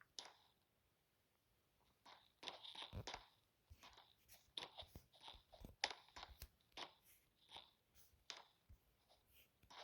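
Faint, irregular crunching and clicking close to the microphone, starting about two seconds in after a near-silent stretch.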